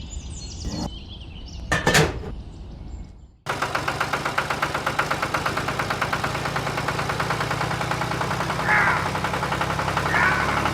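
A tractor engine idling with a rapid, even knocking pulse, cutting in suddenly about three and a half seconds in. Before it there is some clatter and a single loud thump about two seconds in.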